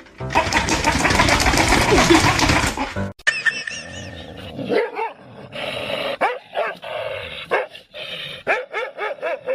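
A loud, rough, noisy burst for about three seconds, then a dog barking and yipping in a run of short barks, two or three a second toward the end.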